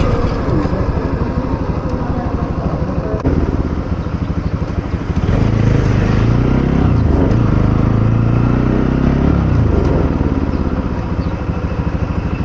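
Motorcycle engine running on the move, its note rising and falling around the middle, with wind buffeting the microphone.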